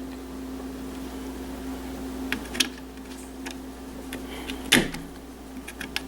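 A few light plastic clicks and knocks as the old wall thermostat is handled and taken off the wall, with a sharper knock a little before the end, over a steady electrical hum.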